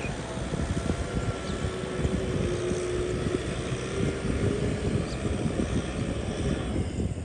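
Tractor engine running steadily under load as it drives a rotary tiller, with a dense low rumble and a droning tone that rises slightly about halfway through.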